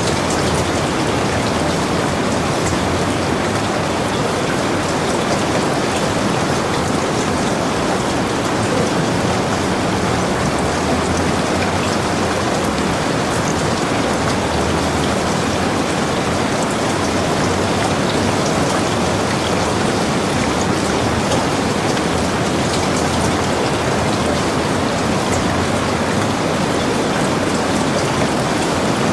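Heavy rain falling steadily, a dense even hiss with many fine drop ticks and no lulls.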